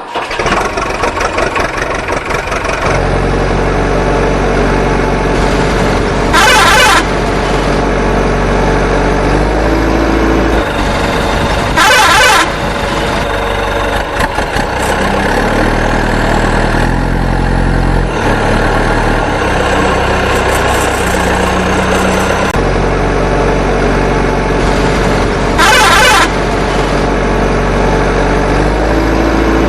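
Cartoon truck engine sound effect running steadily, its pitch shifting now and then, with three short loud horn honks: about a quarter of the way in, near the middle, and near the end.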